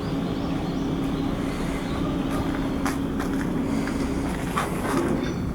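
Shipyard work noise: a steady machine hum that stops about four seconds in, with several sharp knocks between about two and five seconds in.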